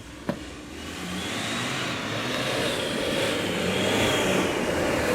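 BMW E36 being driven hard on a snowy road, its engine note and road noise swelling and then rising and falling slowly as it accelerates. A sharp click comes about a third of a second in.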